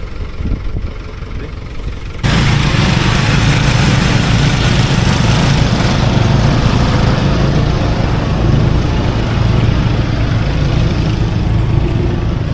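An engine running steadily and loudly close by, coming in abruptly about two seconds in; before that there is only a quieter engine background.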